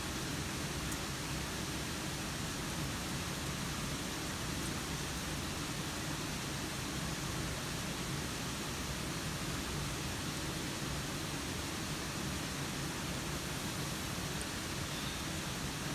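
Steady rain falling, an even hiss that does not change, with a few faint ticks.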